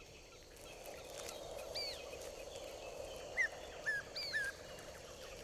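Bird calls over a steady background hiss of outdoor ambience: a short downward-sliding call about two seconds in, then three more in quick succession a little past the middle.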